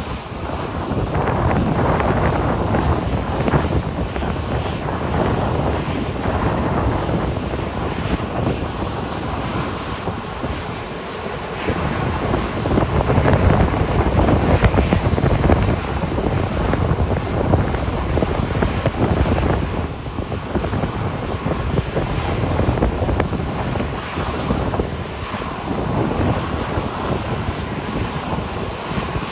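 Jet airliner's engines at takeoff thrust as it departs, a loud rough roar that swells and fades, with gusting wind buffeting the microphone.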